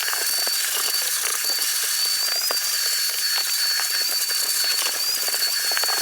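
Vacuum cleaner running on the truck cab's carpet: a steady hissing rush with a high, slightly wavering whistle, and many small ticks and crackles as debris is pulled through.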